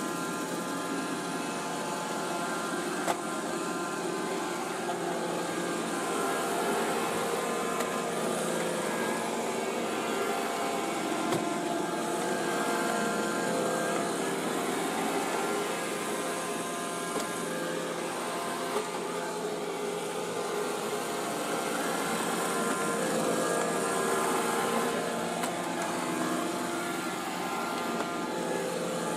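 iRobot Roomba e5 robot vacuum running on a vinyl floor: the steady whir of its vacuum motor and brush rollers with a constant whine, and a few sharp clicks, about 3 and 11 seconds in.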